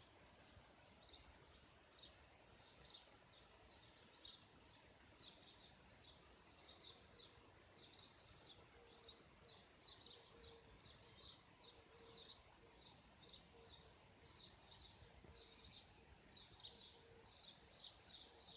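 Faint high bird chirps, short and repeated about twice a second, over a steady hiss. A faint low hum comes and goes through the second half.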